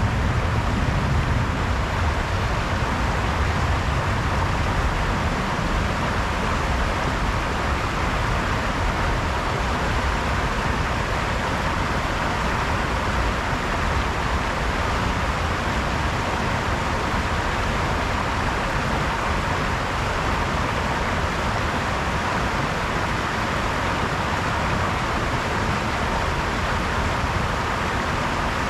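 Brook water babbling and rushing over stones in a steady, even wash of sound with a low rumble underneath.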